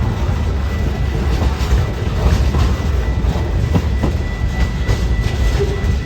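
Railroad cars rolling past on the track: a steady low rumble with irregular wheel clicks over the rail joints, and a faint high steady tone in the second half.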